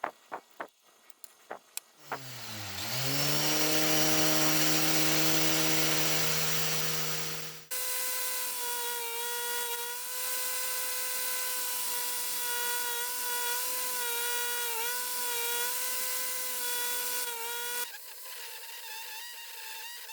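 Electric power tool stripping paint from metal fan parts. After a few light clicks it spins up and runs loudly. It then changes abruptly to a steady whine that dips in pitch several times as it is pressed into the work, and turns quieter near the end.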